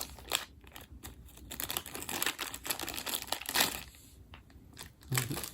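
Thin plastic packaging crinkling in irregular bursts as doll clothes are pulled out of their bag.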